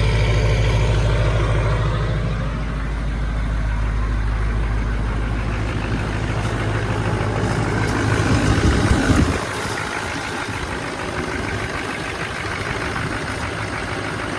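LB7 Duramax 6.6-litre V8 turbodiesel idling just after a hard cold start, unwarmed and running rough. About nine seconds in, a louder surge builds and then drops off suddenly.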